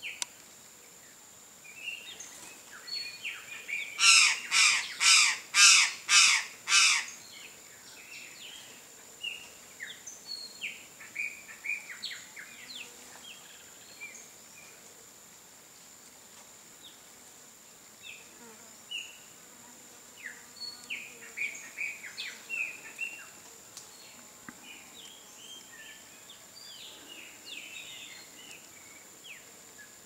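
Birds calling: a series of six loud, harsh calls about two a second, a few seconds in, among many scattered short chirps. A steady high-pitched whine runs underneath.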